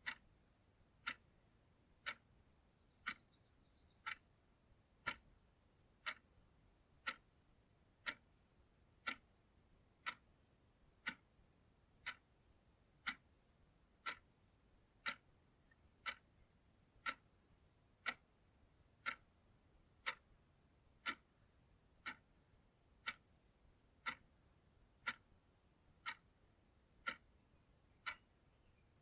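Clock ticking steadily, one short, sharp tick each second.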